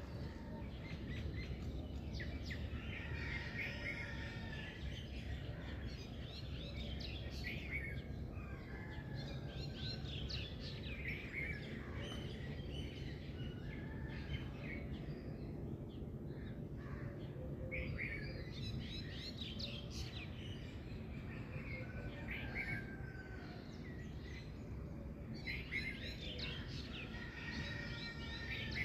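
Several small birds chirping and singing, short trills and tweets coming in overlapping clusters every few seconds, over a steady low background rumble of environmental noise.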